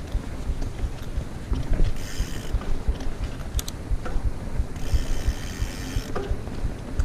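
Mountain bike rolling fast over a rough trail, with continual low knocks and rattle from the bike over bumps. In two short stretches the rear hub's freehub buzzes as the rider coasts.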